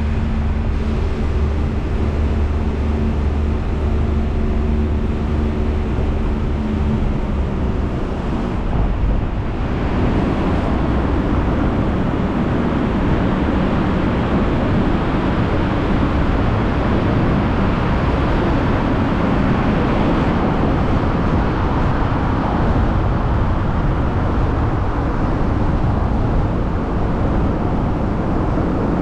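Car driving, recorded from on board: a steady engine hum with a few clear tones for the first several seconds, which from about nine seconds in gives way to a fuller rushing of tyre and road noise.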